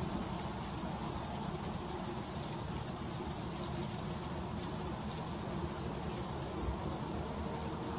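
Freezing rain falling steadily: a dense, even hiss and patter of icy drops ticking on surfaces, with a low rumble underneath.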